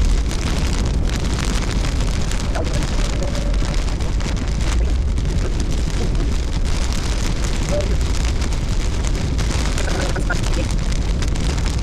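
Steady rushing noise inside a moving vehicle in a storm: weather on the car body and road noise, with no distinct events.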